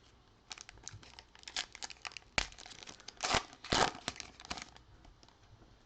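A trading-card pack's foil wrapper being torn open and crinkled by hand, a run of short crackling rasps with the loudest tears in the middle.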